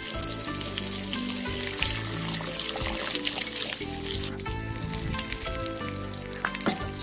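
Donkey intestines sizzling as they pan-fry on an iron griddle, the high hiss dropping away about four seconds in, under background music with held notes.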